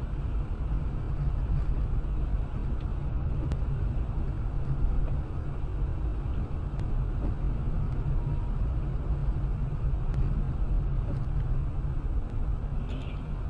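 Steady low rumble of a car on the move, engine and road noise, as picked up by a dashcam inside the vehicle.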